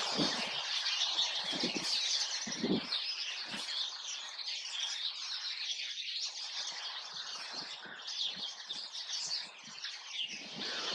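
Flock of common linnets singing and calling together, a dense continuous twittering chatter of many birds at once. A few short low thuds come in the first few seconds.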